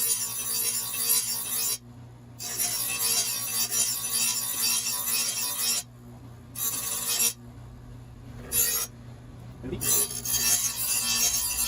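Lawnmower blade being sharpened: metal rasping against the steel edge in long strokes, broken by about four short pauses, over a steady low hum.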